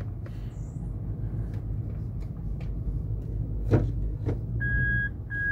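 Toyota Land Cruiser 200's 1UR-FE V8 idling, a steady low rumble heard from inside the cabin, with a few light clicks and a knock from the controls. Near the end a repeating electronic beep starts, the cabin's reverse warning as the gear selector is put into reverse for the forward-and-back test in 4LO.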